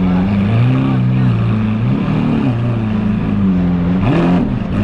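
High-performance car engine revving, its pitch rising and falling several times. A short noisy burst comes from the exhaust about four seconds in.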